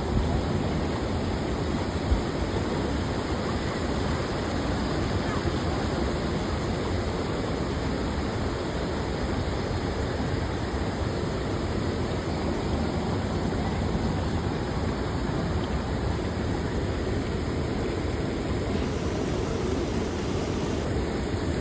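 Waterfall: falling water rushing with a steady, even noise, with one brief knock about two seconds in.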